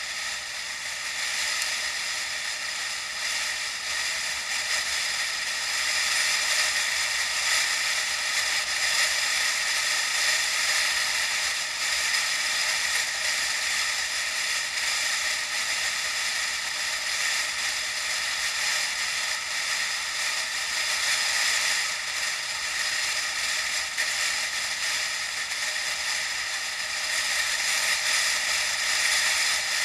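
Steady hissing riding noise of a bicycle on the move, picked up by an action camera. It is loudest in the upper range and has almost no low rumble.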